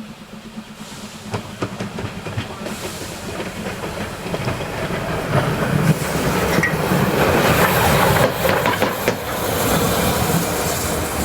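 Narrow-gauge steam train running on the track, wheels clicking over the rail joints with a hiss of steam, growing louder over the first several seconds and then staying loud.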